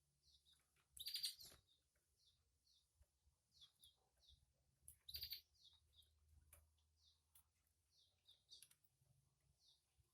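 Canaries chirping: short, faint, high cheeps repeating about twice a second, with two louder, longer bursts of chirping about a second in and about five seconds in.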